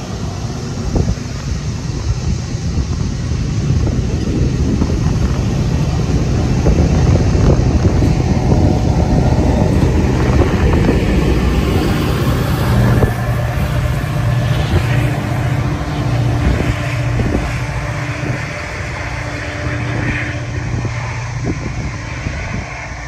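Metra commuter train of bilevel passenger cars rolling past with wheels clattering on the rails, pushed by its diesel locomotive at the rear. The locomotive's engine drone builds and is loudest as it passes about twelve seconds in, drops suddenly just after, then fades as the train pulls away.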